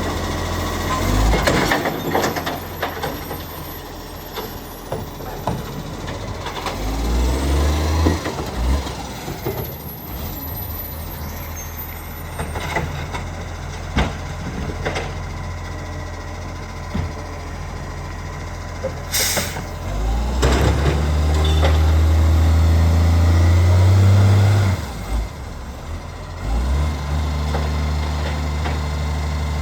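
Acco side-loader garbage truck's diesel engine running with an exhaust leak, with scattered clanks. A short air-brake hiss comes about two-thirds of the way through. Right after it, the engine revs up for about four seconds, then drops back to idle.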